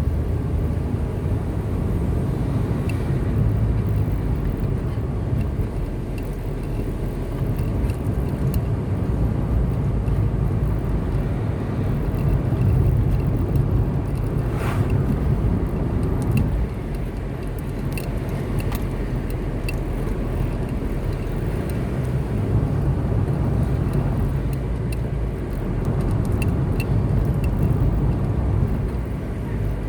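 Car driving along a road: steady low engine and tyre rumble, with a brief swell about fifteen seconds in.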